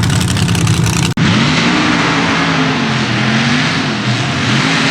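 Mega mud truck engine at high revs, then after an abrupt cut about a second in, a truck engine revving up and down repeatedly under heavy throttle.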